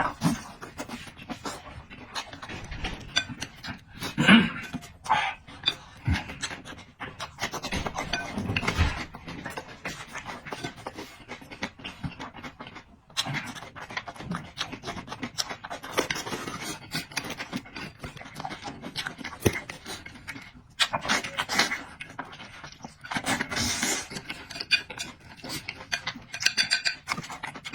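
A person eating close to the microphone: wet chewing and mouth noises coming in irregular bursts.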